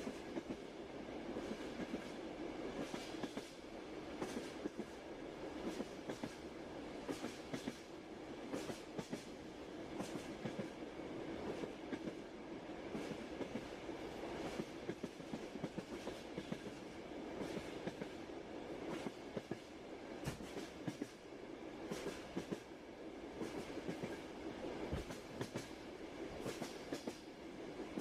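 Train running steadily: a continuous rumble with the repeated clack of wheels over rail joints.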